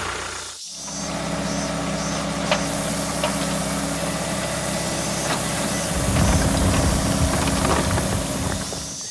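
Small engine of a miniature DIY tractor running steadily, growing louder and rougher for a couple of seconds about six seconds in. A few light clicks sound over it.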